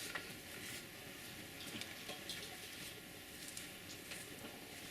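Faint scattered taps and squishes of hands working soft brown clay, pressing it in to fix a sculpted head in place.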